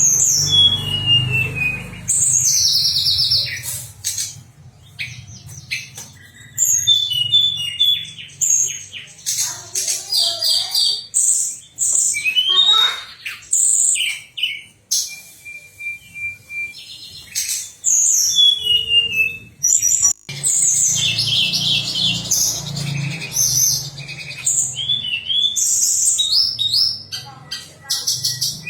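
A songbird singing a rapid, varied run of high chirps, short trills and whistled notes with brief pauses, the 'tledekan' song used as master material for contest songbirds. A low steady hum sits beneath it.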